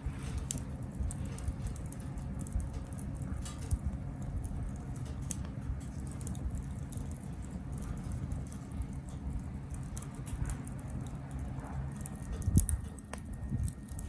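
Wood fire crackling in a Captain Stag Kamado Smart Grill B6, with irregular sharp pops over a low steady rumble and a louder pop near the end.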